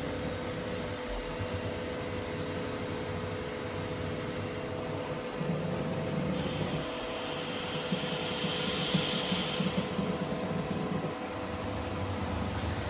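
ANCA FX5 Linear CNC tool grinder running with a steady machine hum and a faint steady tone, joined by a hiss from about six seconds in that stops about ten seconds in.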